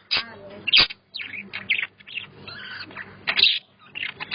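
Pet budgies chattering, with quick overlapping chirps and warbles and a few sharp clicks in between.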